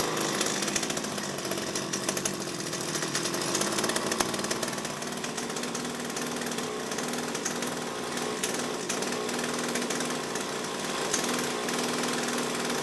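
Mitsubishi string trimmer's small two-stroke engine running steadily just after a cold start.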